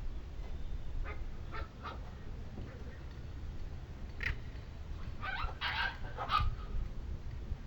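Birds calling at dawn: short, honking calls, scattered at first, then a quick cluster of calls about five to six and a half seconds in. A steady low rumble lies underneath.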